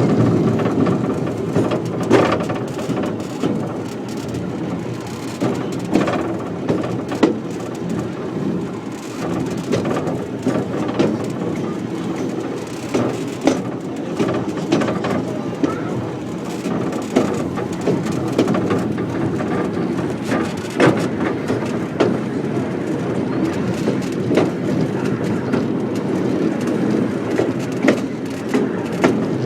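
Train running along the track: a steady rumble and rattle from the wheels and carriages, with frequent irregular knocks and clanks.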